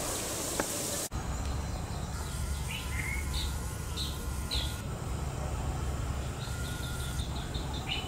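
Small birds calling: a few short, high chirps a couple of seconds in, then a quick run of rapid high notes near the end, over a steady low background rumble.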